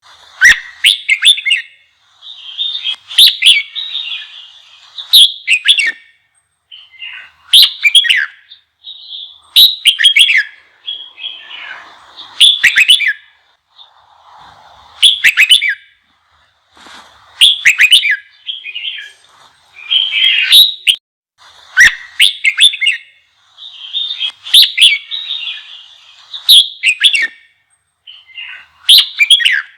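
Red-whiskered bulbul singing a heated, excited song: loud, quick whistled phrases repeated about every two seconds with short pauses between them.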